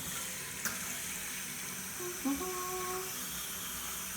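Kitchen tap running into a cooking pot, a steady hiss of water filling it. A person hums briefly about two seconds in.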